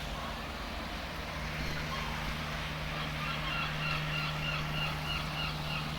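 A bird calls in a quick run of about eight short honking notes, roughly three a second, starting about three seconds in. Under it runs a steady low hum.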